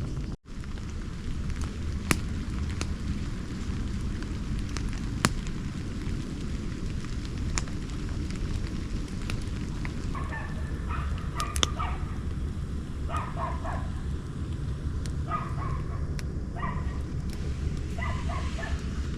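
Campfire crackling with a few sharp pops over a steady low rumble; from about halfway through, an animal barks in short bouts, five or six times.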